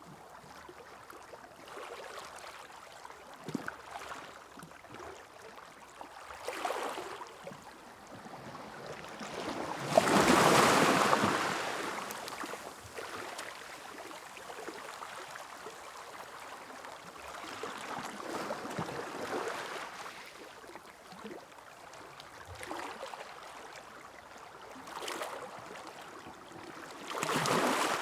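Sea waves washing onto a beach, swelling and falling back several times, with one larger wave about ten seconds in and another near the end.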